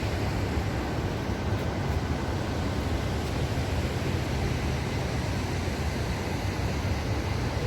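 Steady rush of falling water from the Dubai Water Canal waterfall: an even, unbroken noise with a strong low rumble.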